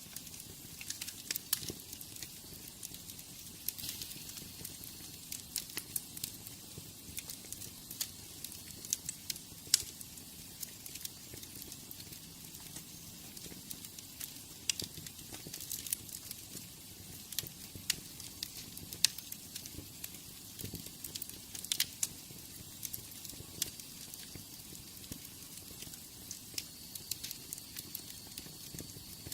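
Wood fire burning in a fireplace: a steady soft hiss of flames with frequent sharp, irregular crackles and pops.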